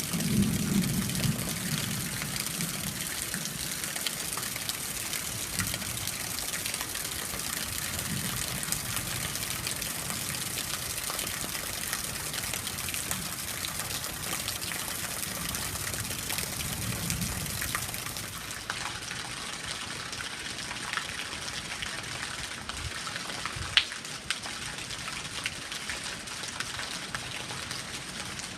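Heavy rain with water gushing and splashing off a roof into a pool: a steady rushing hiss with a few low swells in the first two-thirds. There is a single sharp click near the end.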